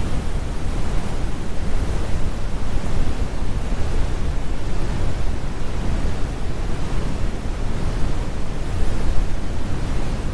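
Synthetic brown noise: a steady, deep rumbling hiss, strongest in the bass and fading toward the treble, with no tones, rhythm or breaks.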